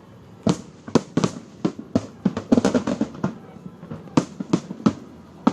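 Fireworks display: a string of sharp bangs from bursting shells at irregular intervals, with a dense run of rapid cracks in the middle.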